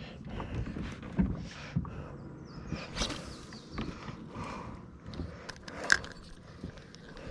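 Kayak being paddled: swishing paddle strokes in the water about every second and a half, with irregular knocks and bumps against the hull, the loudest about a second in and near six seconds.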